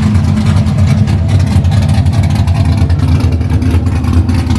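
Cammed LS1 V8 in a Mazda RX8 drift car running steadily with a fine, even pulsing beat.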